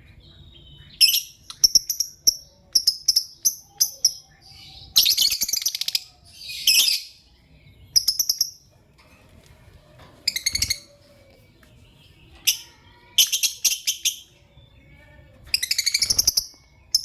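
Lovebirds chirping and calling: clusters of short, shrill high-pitched chirps and rapid raspy chattering calls, repeated in bursts with short pauses between.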